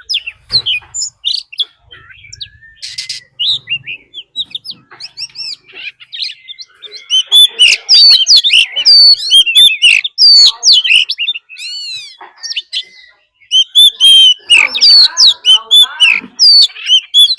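Oriental magpie-robin singing a fast challenge song of varied sweeping whistles and chirps, the kind of fighting song used as a decoy to provoke rival birds. It is sparse at first, then turns loud and almost continuous from about seven seconds in.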